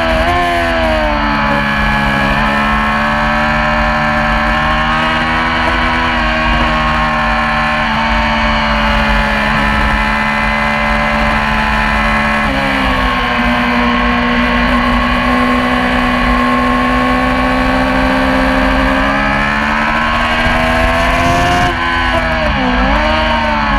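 Yamaha R6 inline-four racing motorcycle engine running hard at high revs, its pitch held nearly steady for long stretches. The pitch steps about halfway through, and near the end it dips briefly and climbs again.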